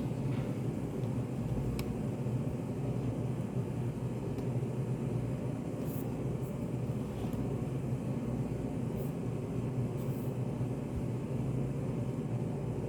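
Steady low rumble of a study café's room ambience, with a few faint, brief ticks scattered through it.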